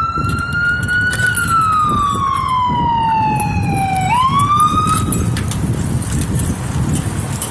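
Emergency vehicle siren on a slow wail: it climbs, sinks over about three seconds, climbs again and cuts off about five seconds in. Steady vehicle and road noise runs underneath.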